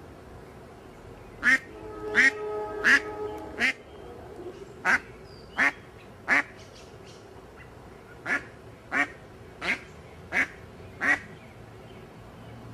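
A duck quacking in three runs of short, evenly spaced quacks, about one every 0.7 seconds, a dozen in all.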